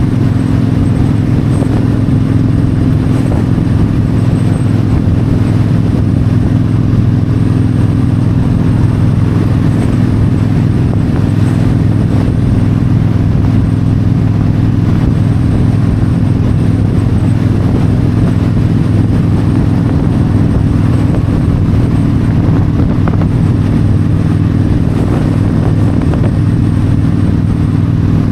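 Yamaha V-Star 1300 V-twin engine running steadily at highway cruising speed, with wind noise over it.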